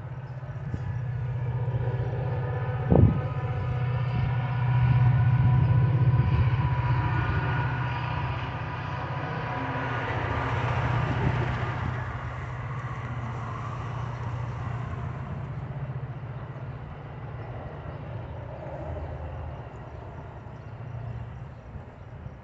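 A train passing, its steady low engine rumble growing to its loudest about five to seven seconds in and then slowly fading, with one sharp knock about three seconds in.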